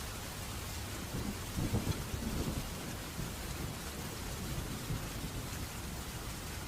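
Steady rainfall with a rumble of thunder that swells about a second in, peaks with a few cracks, and rolls away over the next few seconds.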